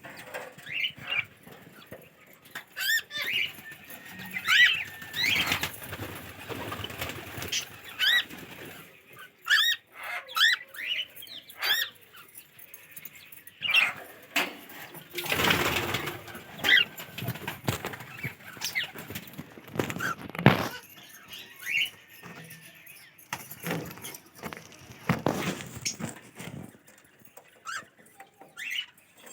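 Cockatiel chicks calling: many short chirps that rise and fall in pitch, broken by louder bursts of rough, noisy sound.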